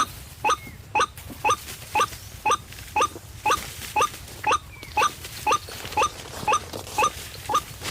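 White-breasted waterhen (ruak-ruak) call played from an MP3 lure recording: one short, slightly bending call repeated at an even pace, about twice a second.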